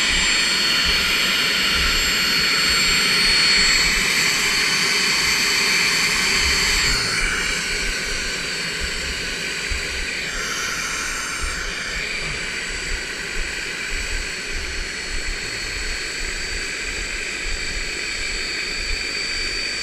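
Turbine helicopter running: a steady high whine over a loud rushing hiss, with an uneven low rumble underneath.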